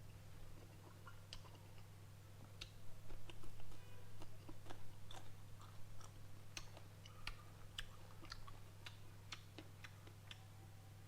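Close-miked eating: chewing with many small wet mouth clicks and smacks, loudest about three to five seconds in. A steady low hum runs underneath.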